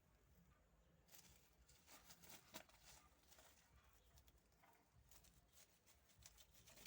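Faint scattered taps and scratches of kittens playing, over near silence.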